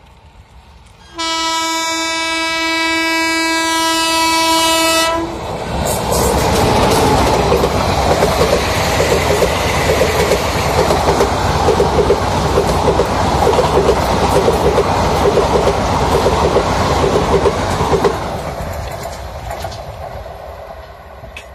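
A locomotive horn sounds one long blast of about four seconds. Then a passenger train passes close by with loud wheel rumble and a rapid clickety-clack from the wheels, fading as the train moves away.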